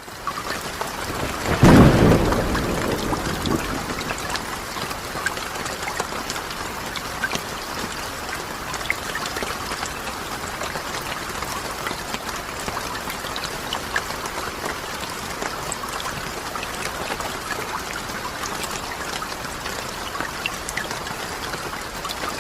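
Steady rain falling, with scattered drops ticking. About a second and a half in, a loud clap of thunder rumbles and fades away over the next couple of seconds.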